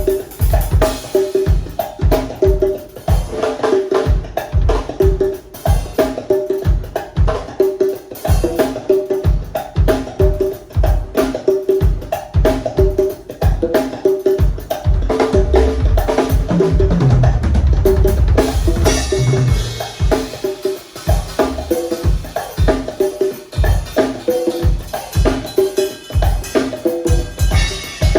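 Drum kit and congas playing a steady groove, the ringing conga tones over bass drum hits, with a busier passage of heavy low drum hits about two-thirds of the way through.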